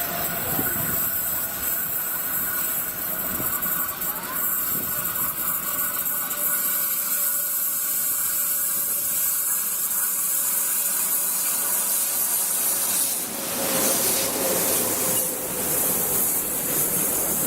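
Train at a station: a steady hiss with a faint electrical whine. About thirteen seconds in, the whine stops and a broader rumble of train wheels on the rails comes in.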